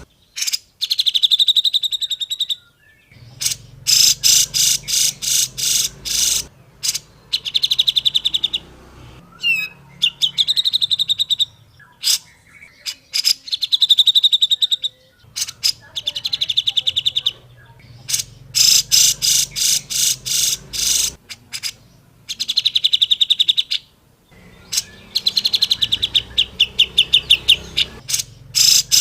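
Cucak jenggot (grey-cheeked bulbul) calling in repeated bursts of rapid chattering notes, each run lasting one to three seconds, with short pauses between.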